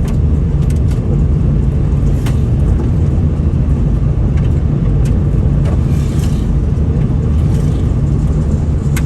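Steady low rumble of a car driving at speed on a loose-chipping road surface, heard from inside the car, with a few scattered sharp ticks.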